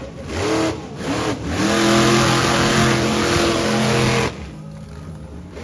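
Monster truck engine revving: two quick blips of the throttle, then held at high revs for a few seconds before it drops off near the end.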